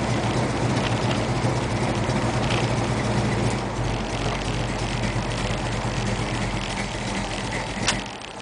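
Mopar 360 V8 of a 1971 Plymouth Satellite, heard from inside the cabin, running as the car rolls slowly and settles lower about four seconds in. Near the end a sharp click is heard and the engine cuts off abruptly: switched off.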